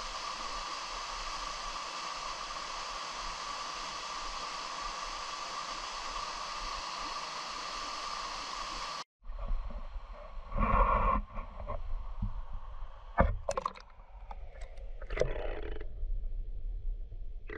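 Steady rushing noise of a waterfall that cuts off abruptly about nine seconds in. After that there is a low rumble with scattered knocks and scrapes close to the microphone.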